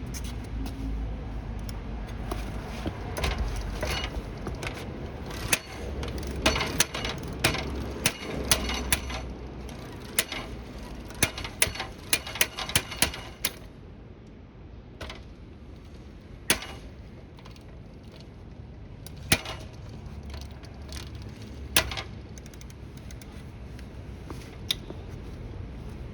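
Electric-assist bicycle rattling: irregular clacks and knocks over a low rumble, dense for the first half and sparser later. It is the kind of abnormal rattle that remained after a new internal three-speed rear hub, a new chain and a motor overhaul.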